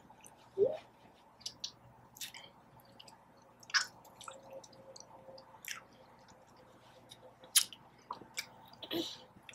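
A person chewing food close to the microphone: scattered wet smacks and clicks. A short rising squeak under a second in is the loudest sound.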